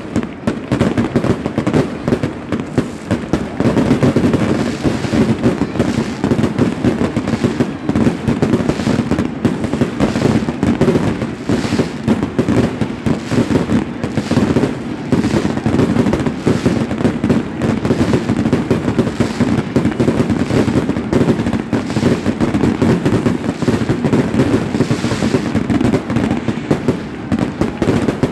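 Fireworks display: aerial shells bursting and crackling one after another in a dense, unbroken barrage.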